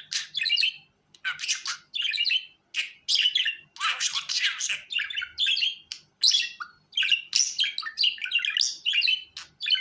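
Budgerigar chattering: a fast run of chirps, warbles and squawky notes in short bursts with brief pauses.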